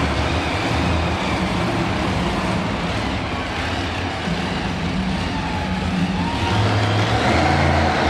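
Monster truck engine running loud, its revs rising and easing.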